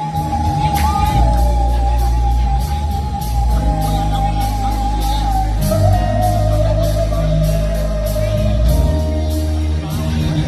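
A singer holds one long high note for about five seconds, then slides to a slightly lower note held with vibrato, over a band with bass and a steady cymbal beat.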